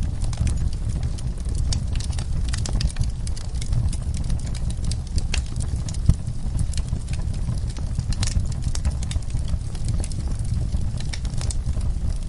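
Wood fire in a fireplace crackling with dense, irregular pops over a steady low rumble, with one louder crack about six seconds in.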